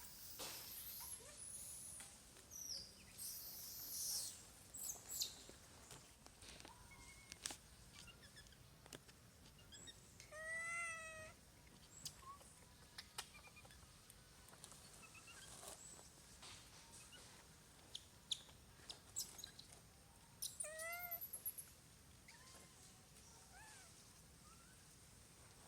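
Baby monkey calling faintly: thin high-pitched squeaks in the first few seconds, then two short wavering cries, one a little before halfway and one about four-fifths of the way through.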